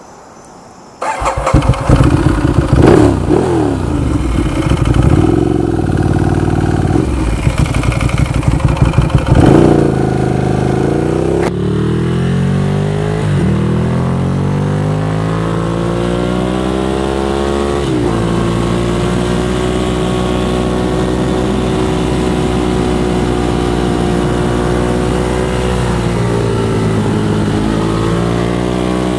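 Ducati motorcycle's V-twin engine coming in suddenly about a second in and pulling away, revs rising and falling, with the pitch dropping at each of three upshifts, then running at a steady cruise.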